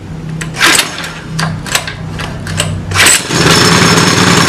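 Small petrol generator engine being pull-started with the choke on: a few surges as the recoil starter cord is pulled, then the engine catches a little over three seconds in and runs steadily.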